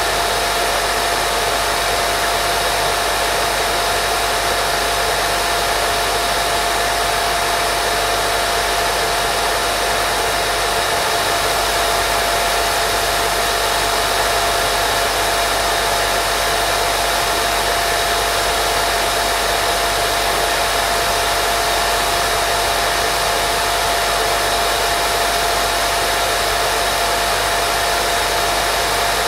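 Steady white noise for baby sleep: an even, unbroken hiss with a faint steady tone running through it.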